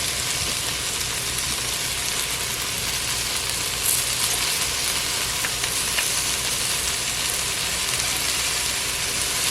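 Sliced okra and lime frying slowly in vegetable oil on low heat: a steady, even sizzle with a few light clicks.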